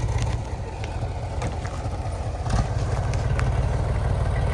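A vehicle engine running at low speed with a rapid low throb, and a few light clicks and knocks over it.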